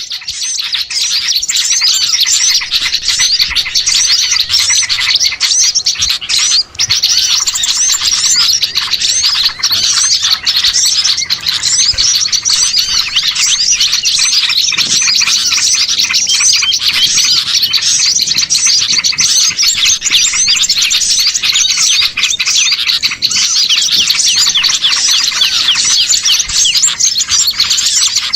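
Dense, continuous chorus of many small songbirds chirping and twittering over one another, a mixed small-bird lure (pikat) recording made to draw wild birds in.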